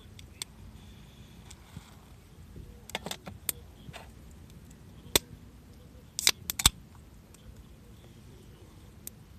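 Wood campfire crackling: irregular sharp pops and snaps, a cluster of louder ones about two thirds of the way in, over a low steady rustle.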